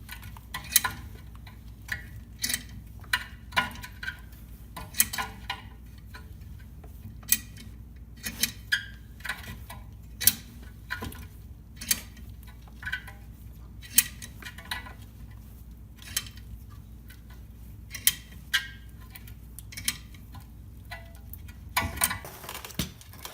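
Sharp metal clicks at uneven spacing, about one every second or so, as a C-clamp is screwed in against an old brake pad to push a brake caliper piston back into its bore, over a steady low hum.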